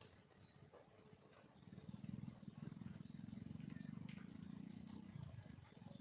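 Junglefowl hen making a low, fast purring rumble that starts about two seconds in, faint, with a few thin high chirps from small birds above it.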